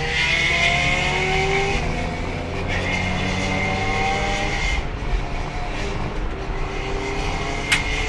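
Race car engine heard from the cockpit, pulling hard with its pitch rising steadily twice as the car accelerates, over a steady high whine. The car is stuck in fourth gear: the transmission is failing, with no third gear and no shifting at speed. A sharp click sounds near the end.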